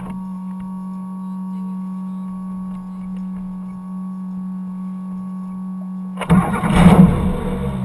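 Boat motor running with a steady hum, then a sudden loud rush of noise about six seconds in.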